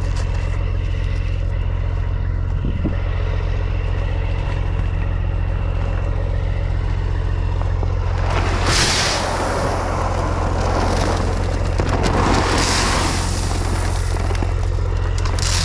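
Four-wheeler (ATV) engine running steadily. In the second half, loud rushing noise swells and fades about three times.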